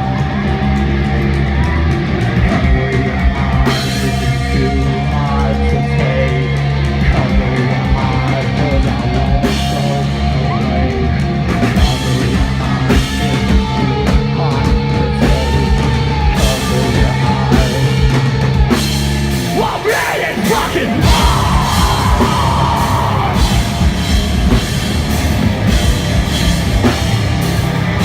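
A punk rock band playing live, with distorted guitars, bass, drum kit and shouted singing. About two-thirds of the way through, the low end drops out for a moment, and the song comes back in with busier cymbal hits.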